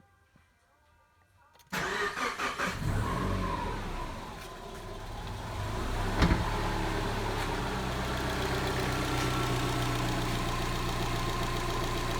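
Rebuilt Subaru flat-four (boxer) engine cranked and started about two seconds in, revving briefly, dipping, then settling into a steady idle, with one sharp click about six seconds in. With a replacement piston in cylinder four after the old one broke, it seems to run evenly now.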